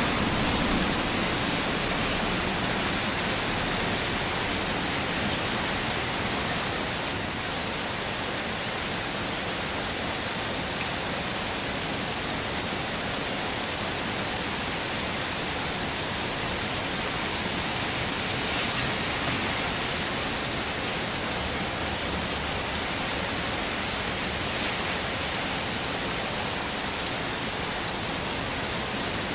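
Heavy rain falling steadily, an even hiss with no breaks, dipping briefly in its highest hiss twice.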